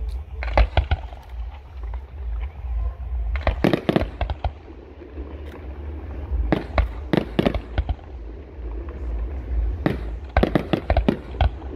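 Aerial firework shells bursting in four volleys of sharp bangs, a few seconds apart, over a steady low rumble.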